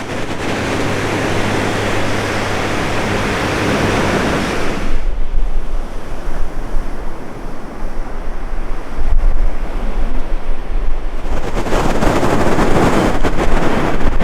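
Loud rushing noise of wind and water, with wind buffeting the microphone and coming in swells. A low steady hum runs under the first few seconds.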